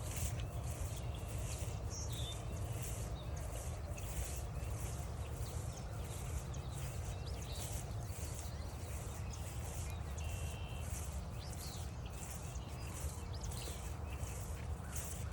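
Footsteps crunching along a forest trail at a steady walking pace, about two steps a second, over a steady low rumble. Scattered short bird calls come through faintly, one held note about ten seconds in.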